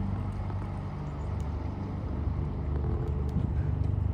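A boat's engine running with a low, steady hum that grows louder near the end.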